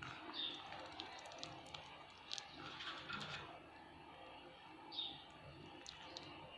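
Ringneck parrot giving two short chirps, one about half a second in and one near the end, with a few faint clicks between them.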